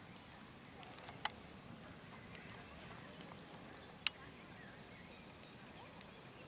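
Wood fire crackling, with irregular sharp pops; the loudest come about a second in and about four seconds in.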